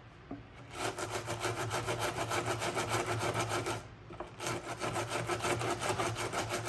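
Rapid back-and-forth rubbing strokes on hard plastic, the ATV's cracked plastic body panel being cleaned up by hand around the crack. There are two bouts of quick, even strokes, with a short pause about four seconds in, over a steady low hum.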